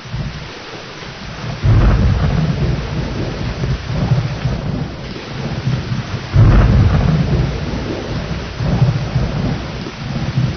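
Steady heavy rain with rolling thunder: sharp low rumbles break in about two seconds in and again past the middle, swelling and fading between them.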